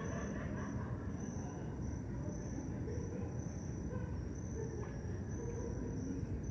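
Crickets chirping, a high trill repeating about once a second, over a steady low rumble.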